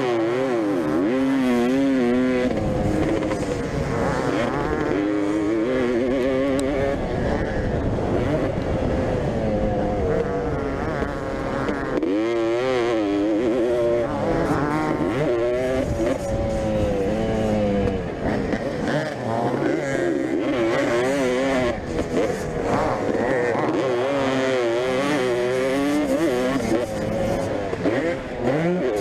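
Vintage motocross bikes racing, their engines revving up and falling off again and again through acceleration and gear changes, with several bikes heard at once.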